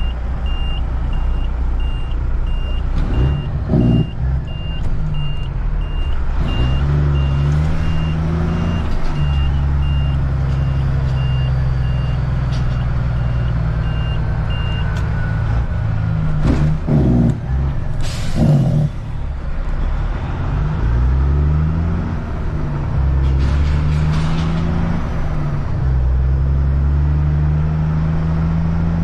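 Reversing beeper sounding a steady repeating beep that stops about halfway through, over diesel engines running and revving up and down several times as a load is put on the truck. A few brief loud noises cut in around the middle.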